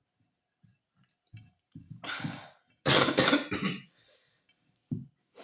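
A person coughing: a loud burst about two seconds in, then a louder, longer one about three seconds in, with a short cough or throat-clear near the end.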